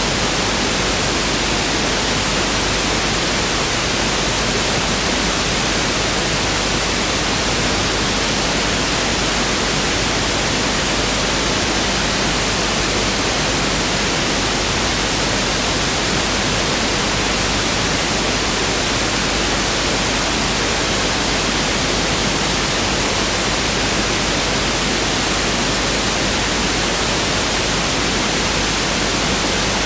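Pink noise test signal: a steady, even hiss spread across all frequencies, unchanging throughout.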